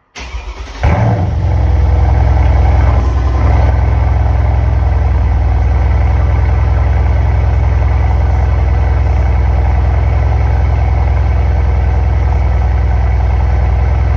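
Mercedes-AMG C63 S's twin-turbo 4.0 L V8 cold-starting through catless downpipes: the starter cranks briefly, the engine catches under a second in with a loud flare, then settles into a steady idle.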